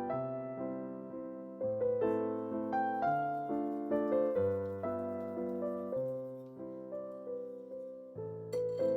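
Solo piano music: a light, lilting classical-style tune over a bass line, its notes struck and fading in an even rhythm.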